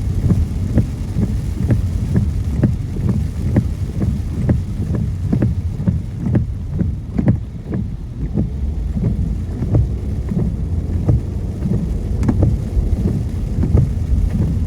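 Car driving in the rain, heard from inside the cabin: a steady low road rumble with raindrops tapping irregularly on the glass, a few taps a second.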